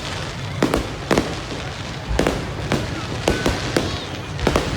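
Aerial fireworks bursting: a rapid, irregular string of sharp bangs over a continuous low rumble of distant explosions.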